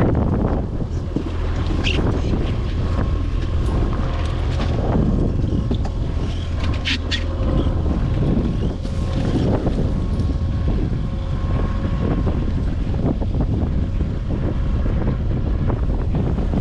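Strong wind buffeting the microphone on a small fishing boat riding big waves: a steady low rumble with a faint steady hum underneath, and a few sharp knocks about two and seven seconds in.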